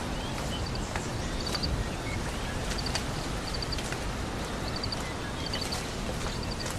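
Forest ambience: a steady hiss with a high, quick chirp of three or four pips repeating about every 0.7 s, and a few faint clicks.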